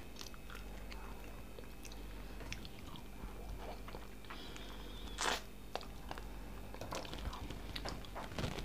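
Close-miked chewing of fried chicken: soft wet mouth sounds and small clicks. About halfway through comes one louder, short wet smack as fingers are sucked clean.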